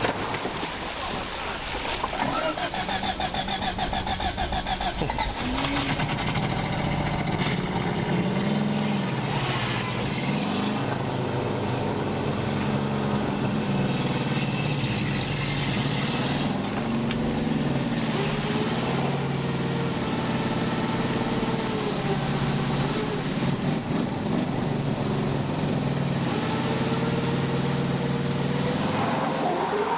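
Vehicle engines revving up and falling back again and again over a steady engine run, during a kinetic-rope recovery pull of a vehicle stuck on ice.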